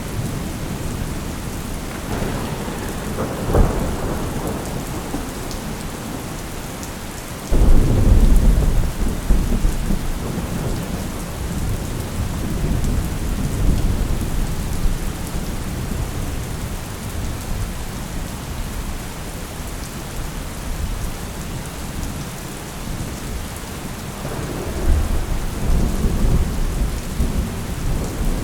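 Thunderstorm: steady heavy rain with rolling thunder. A sharp crack comes a few seconds in, a sudden loud thunderclap about a third of the way through rumbles on for several seconds, and more thunder rumbles near the end.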